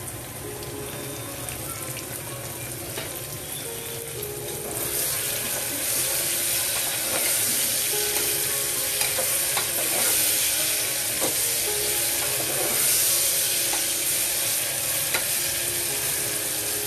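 Sliced mushrooms, onions and green chillies sizzling in hot oil in an aluminium pressure cooker while a spoon stirs them, with a few light taps of the spoon on the pot. The sizzle gets louder about five seconds in as the fresh mushrooms are turned through the hot oil.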